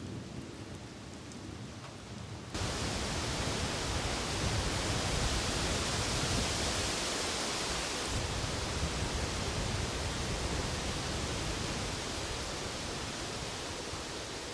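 Steady hiss of heavy rain with wind gusting and rumbling, in a thunderstorm. It jumps suddenly louder about two and a half seconds in.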